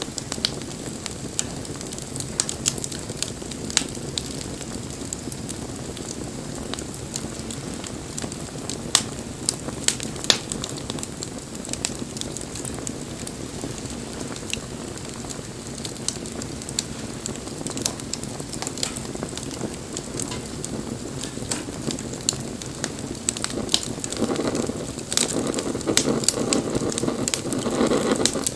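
Wood bonfire burning: a steady low rush of flame with irregular sharp crackles and pops. The rush grows louder near the end.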